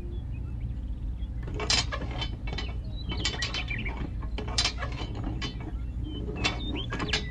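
Thin metal rod being pushed by hand through the holes of a small wooden cultivator frame and a toy tractor's hitch: irregular small clicks and scrapes of metal against wood, starting about a second and a half in, over a steady low hum.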